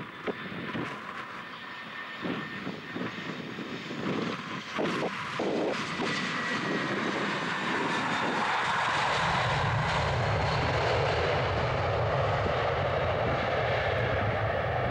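Airbus A320 airliner's jet engines growing louder as it comes in to land, with a deep rumble joining the roar about halfway through.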